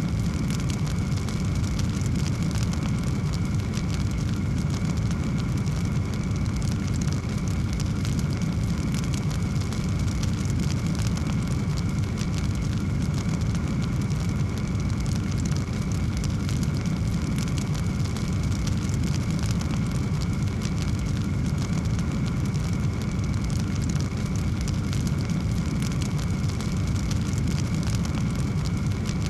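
Wood fire burning in a fireplace: a steady low roar with many small crackles.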